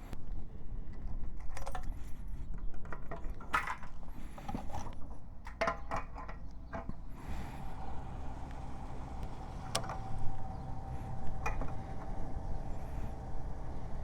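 Suzuki GSR 750 inline-four engine running through an aftermarket Ixrace Z7 exhaust, heard as a low rumble throughout. Scattered clicks and rattles come over it in the first half. From about halfway the engine holds a steady, even note.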